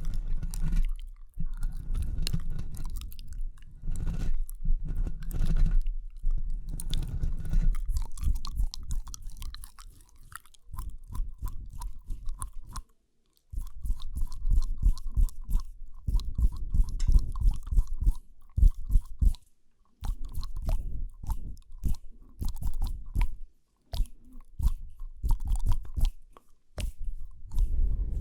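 Close-miked ASMR mouth sounds: rapid clicks and smacks in runs, broken by a few brief pauses.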